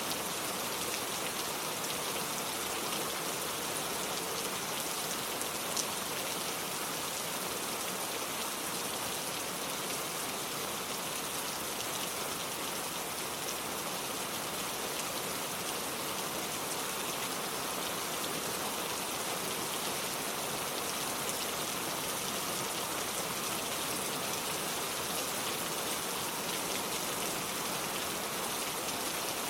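Steady rain falling, an even, continuous hiss of drops with no change in strength.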